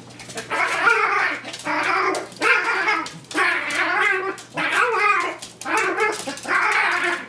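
Tiny four-pound dog growling and yowling in a run of about seven drawn-out calls, each around half a second to a second long.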